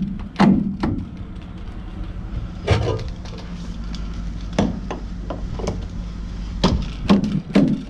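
Scattered knocks and clanks, about eight spread across the stretch, over the steady hum of a semi truck's diesel engine idling.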